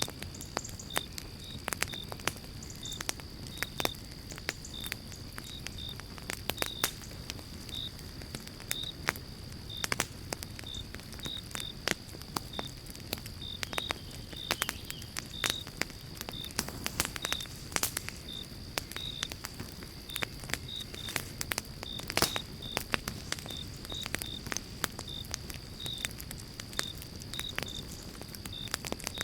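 Pine-log campfire crackling, with frequent sharp pops over a low steady noise and one loud pop about 22 seconds in. A short high chirp repeats about twice a second in the background.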